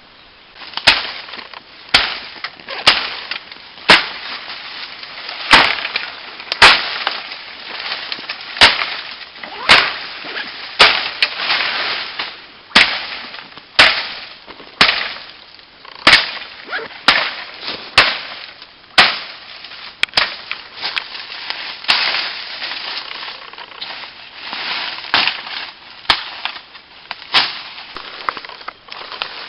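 A long run of sharp strikes, roughly one a second at an uneven pace, each with a short ringing tail, with crackling and rustling between them.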